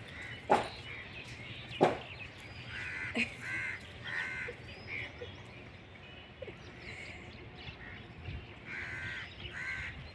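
Harsh bird calls, repeated several times in two bouts, over a low steady background hum. Two sharp knocks come near the start and are louder than the calls.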